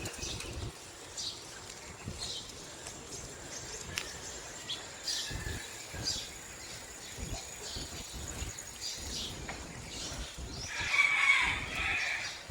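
Small birds chirping on and off over a low rumble of wind on the microphone. Near the end a rooster crows once, the loudest sound.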